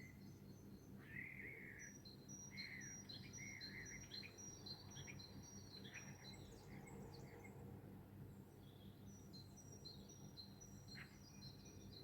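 Several songbirds singing and calling at once in a faint dawn chorus, short chirps and rapid high notes overlapping, over a steady low background rumble.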